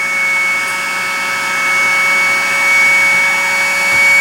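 Hot air rework station blowing steadily: a constant rush of air with a steady high fan whine.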